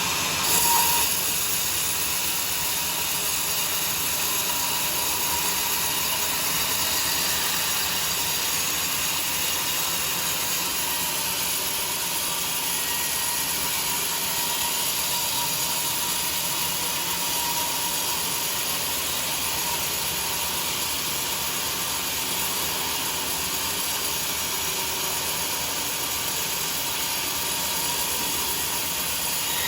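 Sawmill running steadily, a constant hissing mechanical noise with most of its energy high up, and a brief louder swell about a second in.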